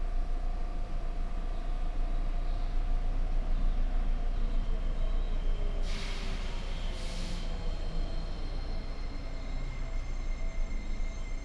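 Seibu 6000 series electric train standing in a station, its onboard equipment giving a steady hum with faint tones, and two short hisses of released air about six and seven seconds in.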